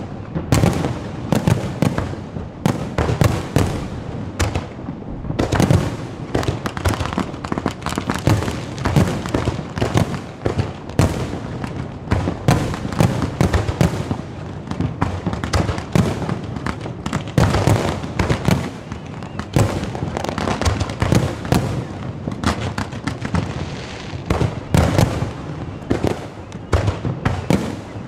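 Many fireworks going off at once: a dense, unbroken crackle of bangs and pops, many every second, with louder bursts standing out here and there.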